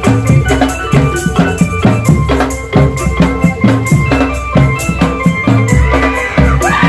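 Drum band music: rapid, dense drumming with shaker-like percussion under a melody of held notes, and a pitched sound sweeping up and down near the end.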